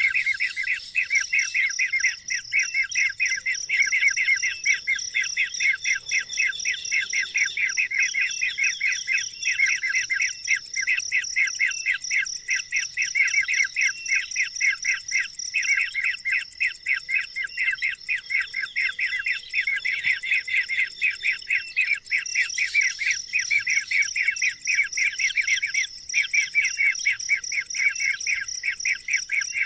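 Birds chirping rapidly and without a break, many short calls a second, over a steady high-pitched tone.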